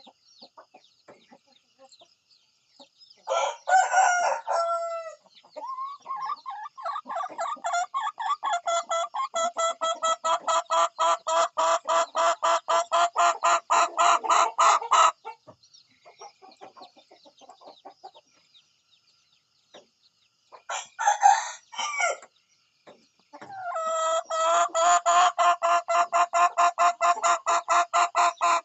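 Chickens calling: one pitched call about three seconds in, then long runs of rapid, evenly spaced clucks, about five a second. Another short call and run of clucks follow after a few seconds' pause.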